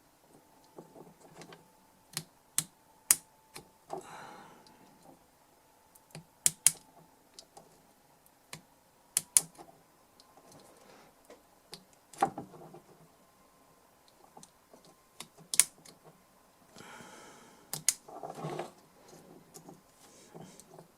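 Irregular sharp clicks and taps, with a few brief scraping sounds, from tools and small parts being handled while an old DI box is taken apart and cleaned.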